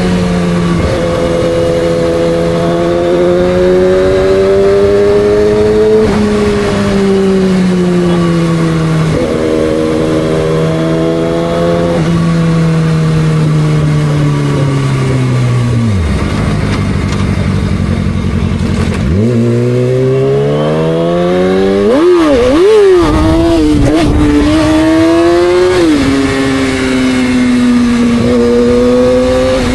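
A 2006 Yamaha R6's inline-four engine running on the move, its revs holding and sagging for a while, then dropping away sharply about halfway through. A few seconds later the revs climb again, swing up and down quickly a couple of times, and settle after another drop.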